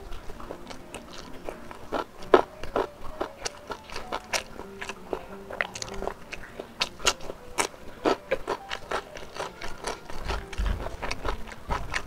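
Close-up eating sounds: a person chewing and biting smoked beef, rice and raw green vegetables by hand, with many sharp, irregular crunches and wet mouth clicks.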